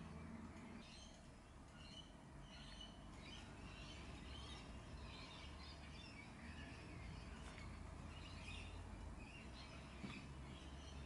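Faint bird chirps scattered throughout, over a steady low hum.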